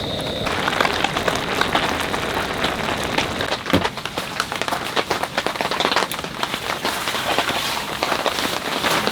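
Heavy winter rain, with dense, irregular drops pattering on a surface.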